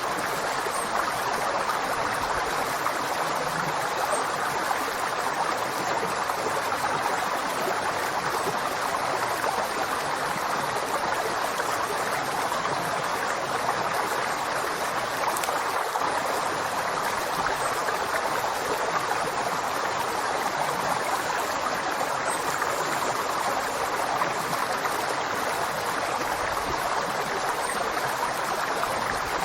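River water flowing steadily, a constant rushing with no breaks or changes.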